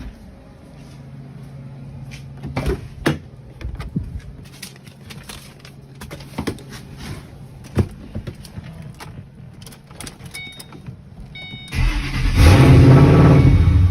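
Scattered clicks and knocks with a faint steady hum, a few short chime tones, then the turbocharged Mustang V8 cranks and fires about twelve seconds in and runs loudly.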